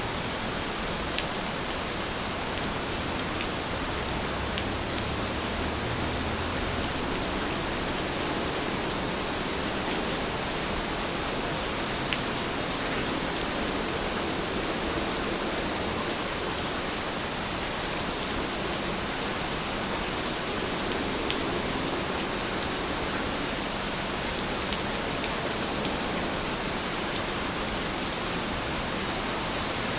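Steady rain falling, an even hiss, with occasional single drops ticking sharply above it.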